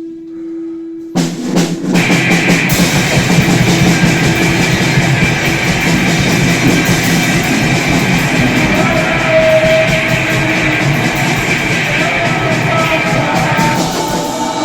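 Grindcore band of distorted guitar and drum kit. A single held tone gives way to a few hits about a second in, then the full band crashes in at high speed, loud and dense, to the end.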